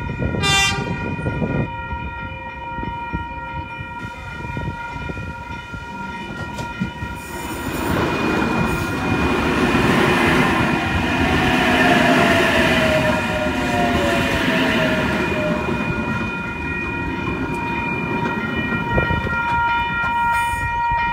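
Electric passenger train passing at speed over a level crossing: the rumble of wheels and bogies swells from about 8 seconds in, with a falling whine from the traction motors as it goes by. There is a short horn toot just after the start, and a steady ringing tone is held throughout.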